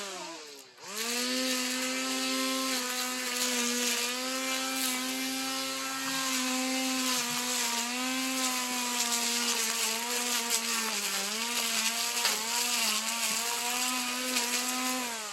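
Battery-powered grass trimmer's electric motor whining at full speed. It winds down and almost stops just after the start, spins back up about a second in, dips briefly under load around the middle, and winds down again at the end as the trigger is released.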